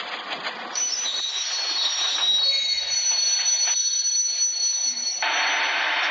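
Train wheels squealing on the rails: a high, steady squeal starts about a second in, and a louder rushing rail noise takes over near the end.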